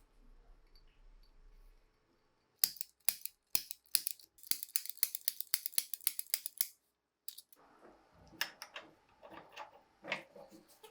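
Small metal pistol parts being handled during restoration work. A fast run of sharp clicks about two seconds in lasts some four seconds; after a brief pause come softer scraping and a few clicks.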